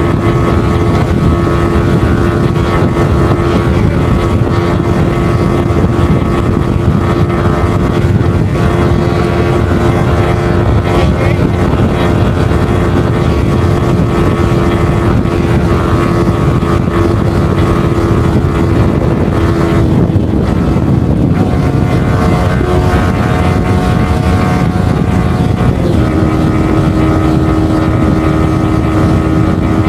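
Yamaha R15 M's 155 cc single-cylinder engine running hard at around 140–148 km/h, a steady high engine note under heavy wind rush on the microphone. The engine note dips about two-thirds through and climbs back near the end.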